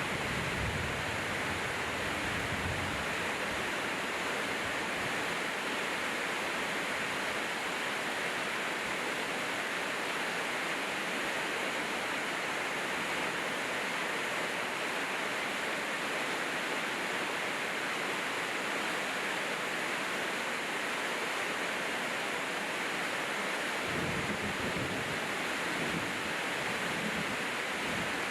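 Steady rain falling: an even hiss that holds at one level throughout. A low rumble comes and goes near the start and again in the last few seconds.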